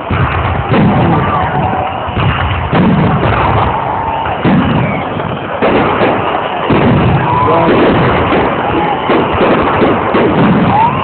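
Aerial fireworks going off in a fast, continuous series of bangs and crackles, with people's voices mixed in.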